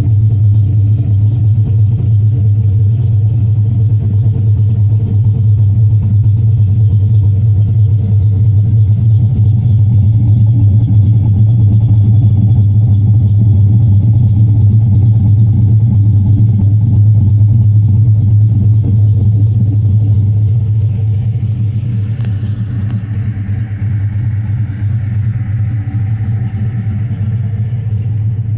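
Chevy Avalanche's V8 with a performance camshaft, running steadily with its cam sound. It gets slightly quieter about two-thirds of the way through.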